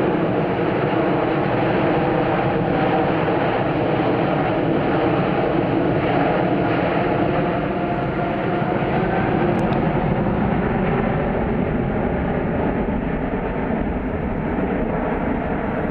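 Airbus A380's four turbofan engines during a display circuit: a steady jet rumble with faint tones running through it, easing slightly after about ten seconds.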